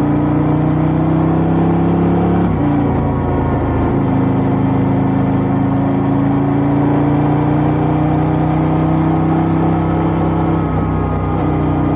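KTM 890 R Duke's parallel-twin engine through an Austin Racing GP1R exhaust, pulling on the road with its pitch slowly rising. It breaks briefly about 2.5 s in and again near the end, like upshifts between gears.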